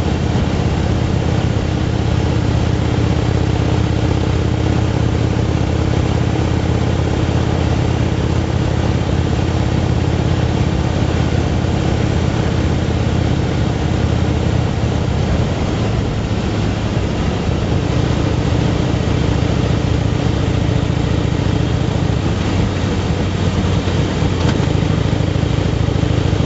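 Motorcycle engine running steadily at cruising speed, with wind rush over it. The engine note shifts a little past halfway through.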